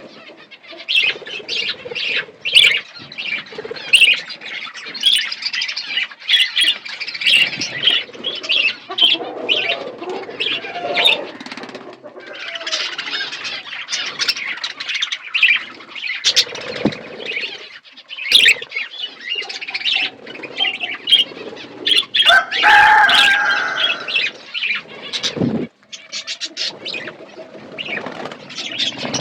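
Budgerigars chattering with many rapid chirps, mixed with wing flutters; a short warbled call about three quarters of the way in.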